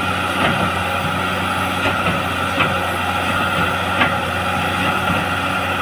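Caterpillar excavator's diesel engine running steadily under load as the machine tries to drive itself out of deep mud, with a couple of faint ticks.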